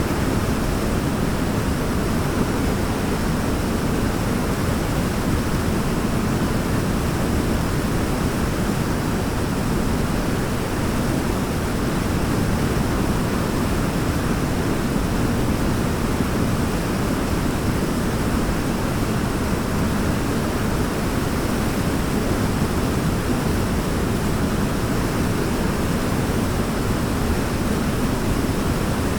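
Forest waterfall with water rushing and splashing in a steady, unbroken roar of noise, deepest in the low range.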